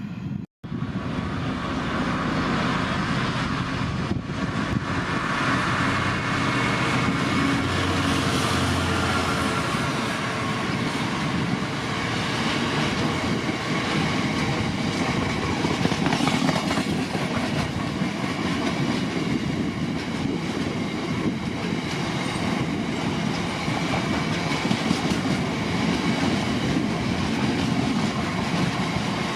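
Freight train passing, its wagons rolling by with a steady, continuous rail noise.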